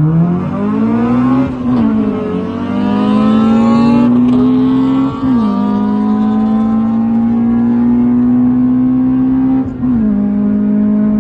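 K20A2-swapped Honda Civic's four-cylinder engine accelerating hard through the gears. Its pitch climbs steadily and drops sharply at each of three upshifts, about a second and a half, five seconds and ten seconds in.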